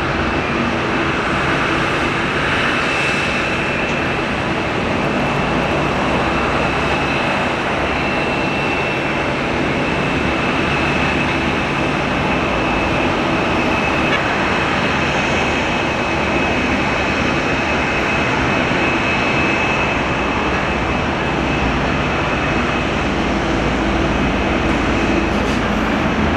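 Boeing 747-400's four Rolls-Royce RB211 turbofan engines running steadily: a continuous jet rumble and hiss with a high, steady fan whine.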